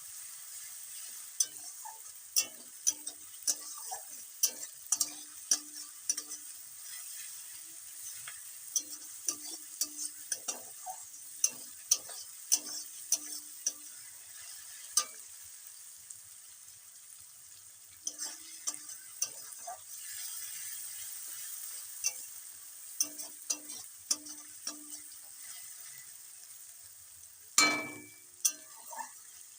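Onions and garlic paste sizzling in hot mustard oil in a kadai while a metal spatula stirs, tapping and scraping against the pan again and again. Near the end comes one louder metal knock with a short ring.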